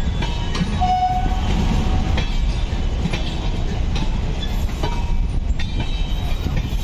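Passenger coaches of a departing express train rolling past at low speed: a steady rumble of wheels on rails, with clacks every second or so as the wheels cross rail joints. A brief steady tone sounds about a second in.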